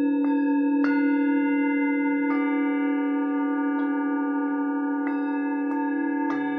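Singing bowls ringing: one low bowl holds a strong, steady tone with a slow wobble, while higher bowls are struck softly about six times, one after another, each strike adding its own layer of ringing tones.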